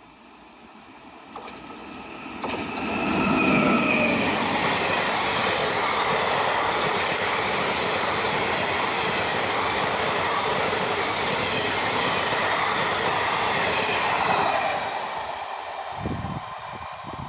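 Electric-hauled passenger express train passing at high speed: the sound builds over the first few seconds as the locomotive arrives, then a steady rushing clatter of coach wheels on the rails for about ten seconds, fading as the end of the train goes by.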